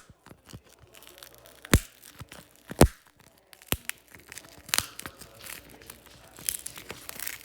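A cracked glass phone screen protector being bent and broken apart by hand: several sharp snaps of the glass, with faint crackling and crinkling between them.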